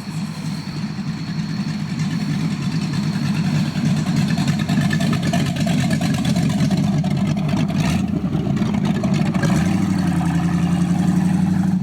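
Ford Mustang engine running loud on open headers with no exhaust fitted, its note swelling over the first few seconds and settling into a steady idle near the end.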